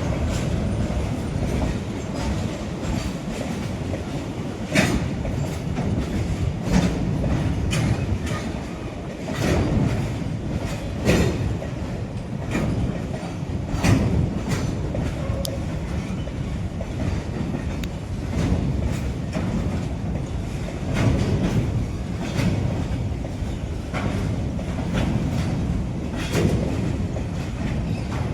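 Freight train of BCNA covered wagons rolling past, a steady low rumble of wheels on rail with irregular clacks as the wheels cross rail joints.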